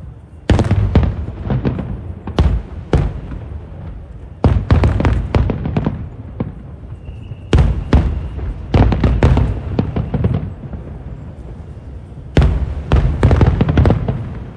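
Aerial fireworks display: shell bursts going off in rapid volleys, sharp bangs each trailing into a low rumble, in clusters every few seconds.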